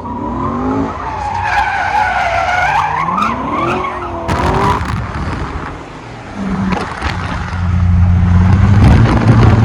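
A car doing donuts: tires squealing with a wavering pitch while the engine revs up, for about the first five seconds. Then a loud, steady, low engine rumble takes over from about six and a half seconds in.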